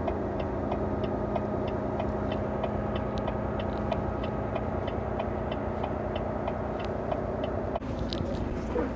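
Semi truck's diesel engine idling with a steady hum, with an even light ticking about two to three times a second over it. One of the steady tones drops away near the end.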